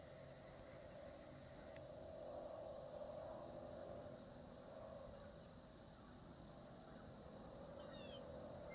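Insects trilling in a steady, finely pulsing high chorus, with a fainter lower pulsing drone beneath it. There is a brief faint chirp near the end.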